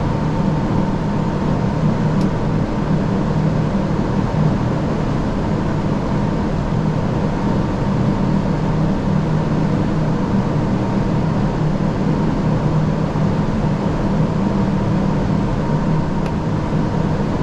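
Steady cockpit noise of an Airbus A340-600 on final approach: an even rush of airflow and air conditioning over a low hum, with a faint steady tone riding on top.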